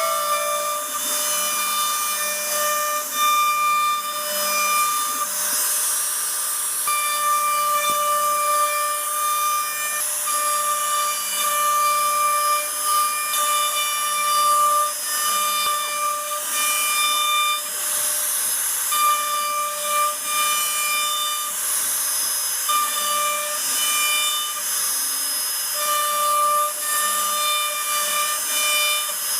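CNC router cutting a design into a wood panel: a high-pitched whine that drops out and comes back every second or two as the machine moves, over a steady hiss of cutting.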